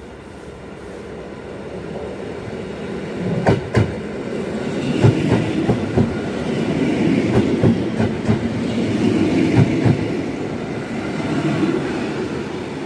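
EN57AL electric multiple unit passing close along the platform, its rumble building as it comes in. Its wheels clack in quick pairs over the rail joints as the bogies go by.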